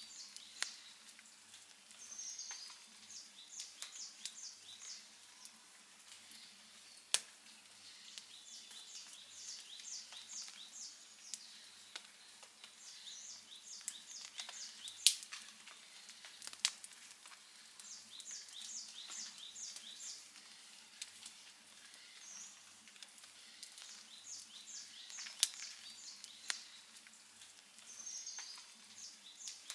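Outdoor wood campfire crackling, with scattered ticks and a few sharp, loud pops. Short series of high-pitched chirps recur every few seconds over the crackle.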